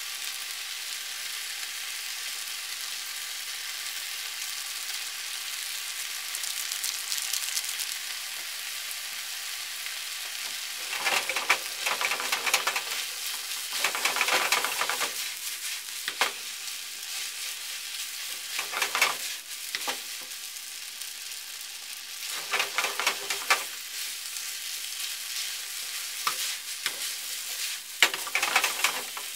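Yakisoba noodles, pork and vegetables sizzling in a frying pan with a steady hiss. From about ten seconds in, the food is stirred and tossed in several short rounds, each a louder burst of crackling and scraping.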